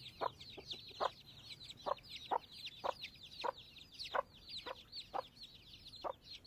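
Chicks peeping continuously in high, falling chirps while a mother hen clucks in short low notes, about one every half second.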